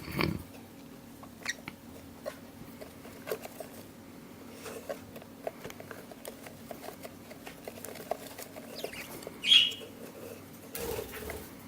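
Budgerigar chicks moving about, making many light taps and scratches, with one short, loud chirp about nine and a half seconds in.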